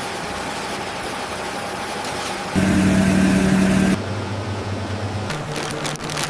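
Factory machinery running with a steady hum and held tones. The hum changes abruptly, getting louder about two and a half seconds in and dropping back about four seconds in.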